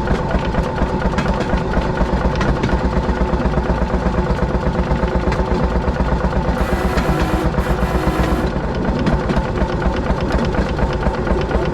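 Railroad speeder's small motorcar engine running with a rapid, even pulsing beat. A brief hiss joins in about seven seconds in.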